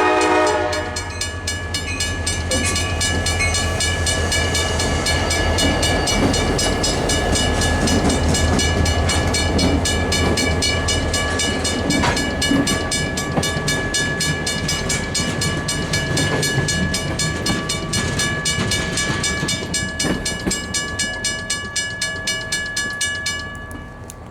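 Vintage railroad crossing bell ringing with a steady, even beat while the EMD diesel locomotives pass with a low engine rumble; the locomotive horn sounds briefly at the start and cuts off about half a second in. The sound drops away about a second before the end.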